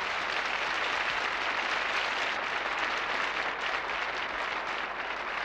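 Large concert audience applauding steadily after a song ends.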